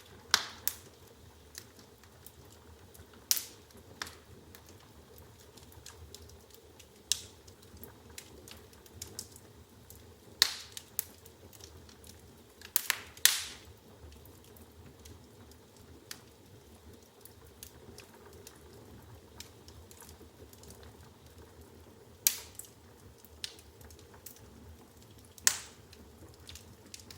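Firewood burning in an open fireplace: irregular crackling, with a handful of loud, sharp pops spread through it over a soft, steady hiss of flame.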